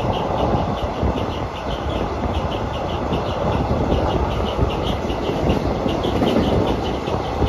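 A moving long-distance passenger train: a steady rumble of wheels running on the rails, with light high ticking repeating several times a second.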